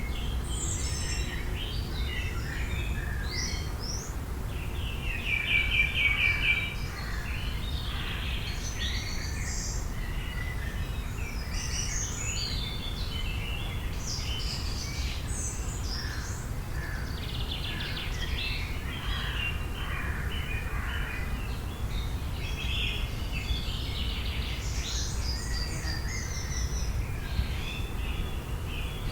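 Several birds chirping and singing in overlapping short calls, with a loud rapid trill about five seconds in, over a steady low rumble.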